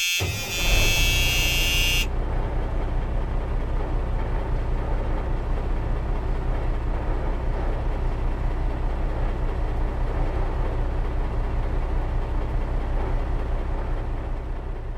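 A car engine running with a steady, deep low rumble. A high, horn-like tone sounds over it for about the first two seconds.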